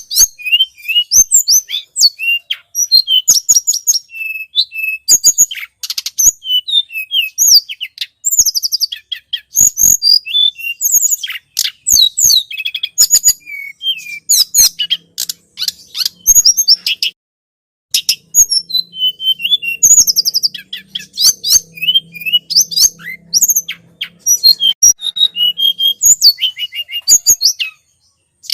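Tledekan gunung song played as a bird-lure recording: rapid, loud, high-pitched chirps and twittering phrases in close succession, with a brief pause about two-thirds of the way through.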